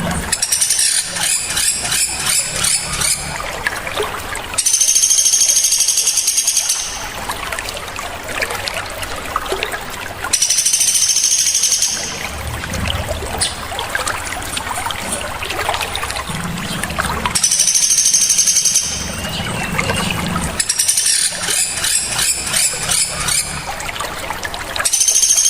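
Looped masteran recording of small songbirds: a sharp, high trill of about two seconds recurs every six seconds or so, with rapid ticking chatter between, over a steady trickle of running water.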